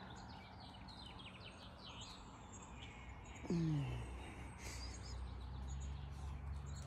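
Birds chirping in the background over a steady low hum. About three and a half seconds in, a short low voice sound falls in pitch.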